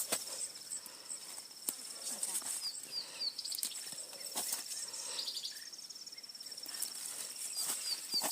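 Outdoor farm ambience: an insect, cricket-like, trills steadily at a high pitch, with two short runs of quick chirps from a bird and scattered light clicks.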